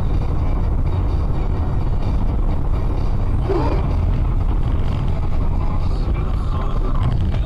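A moving vehicle's steady low road and engine rumble, as picked up by a dashcam, with a short wavering tone about halfway through.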